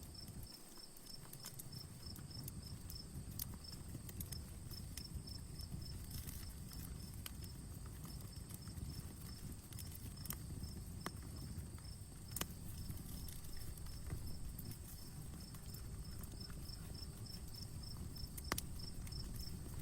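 Wood campfire burning with a low rumble and scattered crackles, a few of them sharp pops. A cricket chirps steadily behind it, about three to four chirps a second.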